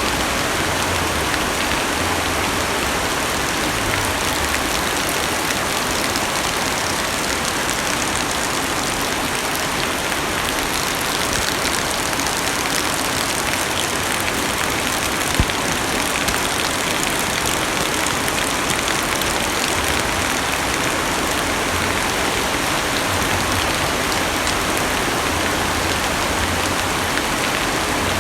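Heavy rain pattering steadily on a car's roof and windows, heard from inside the cabin, with one sharper tap about halfway through.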